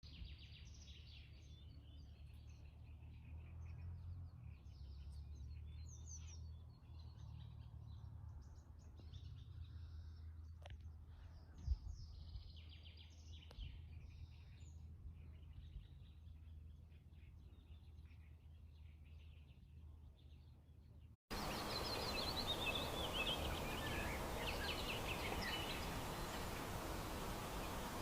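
Several songbirds chirping and singing in a morning chorus over a low steady rumble, with a single brief thump about twelve seconds in. About two-thirds of the way through, the sound cuts to a louder stretch where the birdsong continues over a steady hiss.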